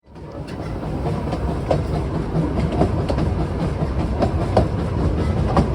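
Narrow-gauge heritage train carriage running along the track, a steady low rumble with irregular clicks and knocks from the wheels and couplings.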